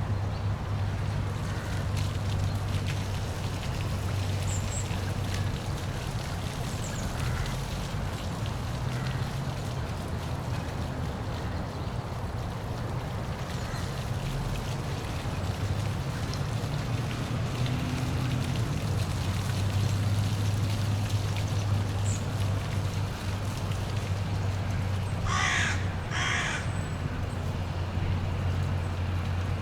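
Steady rush of a park waterfall with a low rumble beneath it. Near the end a bird gives two harsh calls in quick succession.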